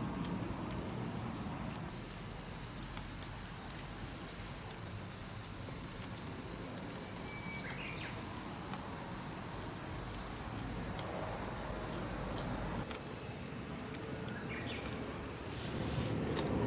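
Insects singing in a steady high-pitched chorus that shifts in pitch about four seconds in and again near twelve seconds, with a couple of faint short chirps.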